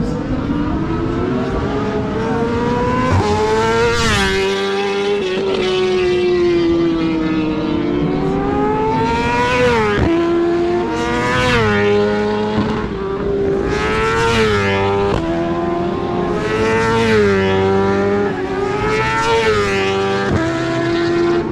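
1000 cc superbike racing motorcycles going past one after another at speed. Each engine revs up and its pitch drops sharply at every gear change.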